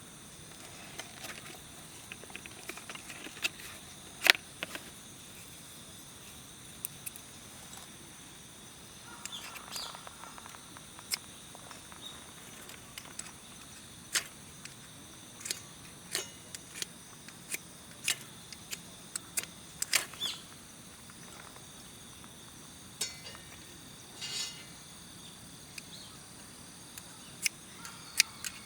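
Small wood fire crackling, with irregular sharp pops and snaps, over a steady high-pitched insect drone.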